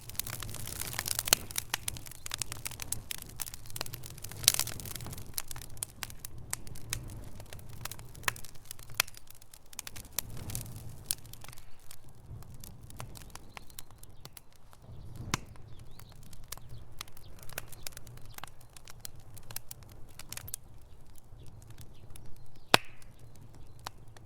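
Wood fire in a fireplace crackling, with many irregular pops and snaps over a low steady rumble of the flames, and one sharp snap near the end.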